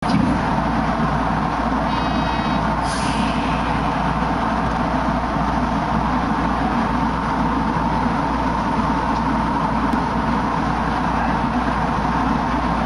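Hakone Tozan Railway electric train running along the track, heard from inside the cab: a steady rumble of wheels and motors, with a short hiss about three seconds in.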